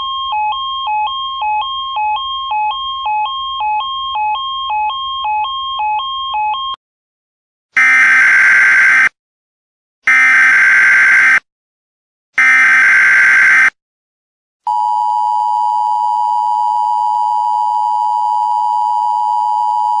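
Emergency Alert System alert tones: a two-pitch alarm alternating high and low about twice a second, which cuts off. Then come three short screeching bursts of the SAME digital header, and a long steady attention tone.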